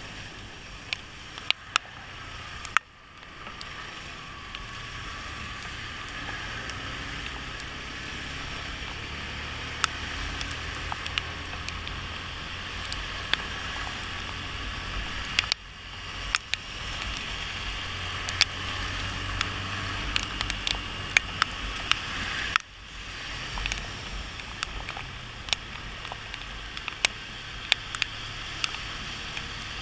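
Motorcycle riding in the rain: a steady rush of wet road and wind noise over a low engine hum, with sharp ticks of raindrops striking the microphone. The noise dips abruptly three times.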